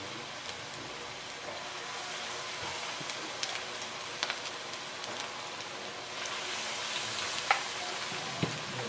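Battered shrimp and spring-onion fritters deep-frying in hot oil in a frying pan: a steady sizzle with scattered crackles and pops, getting a little louder about six seconds in.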